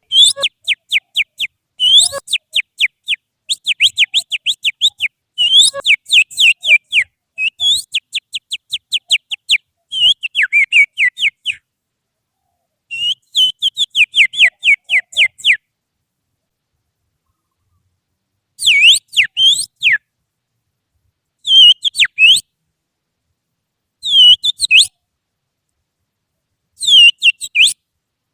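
Sharp finger whistling imitating an oriental magpie-robin's song: fast runs of quick falling notes, several a second, in bursts. After a pause of a few seconds near the middle it turns to shorter swooping phrases about two seconds apart.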